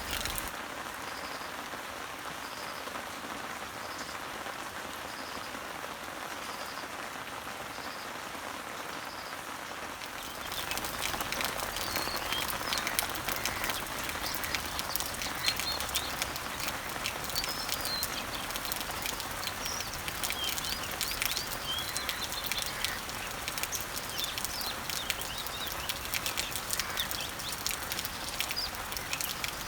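Rain falling on garden leaves and trees, a steady hiss with birds chirping. For the first ten seconds it is softer, with a short high note repeated about once a second; then the rain grows louder, with many sharp drop clicks and frequent bird chirps.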